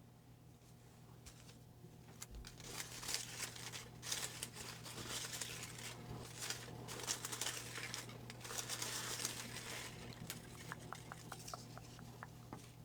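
Paper rustling and crinkling for several seconds, typical of a folded name slip being drawn from a hat and unfolded, ending in a few light ticks.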